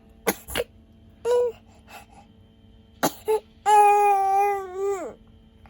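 Infant fussing and crying: a short whine about a second in, then one long, steady wail near the end that drops in pitch as it stops, with a few sharp clicks early on.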